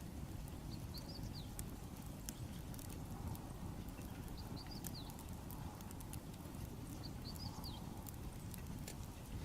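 Wood bonfire crackling with scattered sharp pops over a steady low rumble, while a small bird sings a short high phrase three times, about every three seconds.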